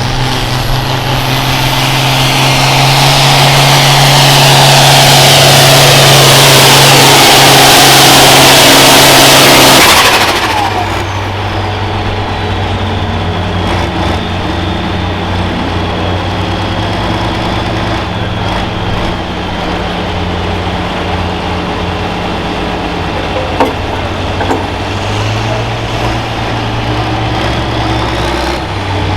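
Modified farm tractor's diesel engine at full throttle under load during a tractor pull, getting louder for about ten seconds. The throttle then cuts off suddenly and the engine drops to a steady idle, with a faint high whine lingering.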